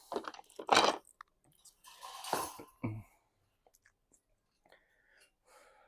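Brief handling noises of cage parts and packaging: a few soft knocks, then a short crinkling rustle about two seconds in.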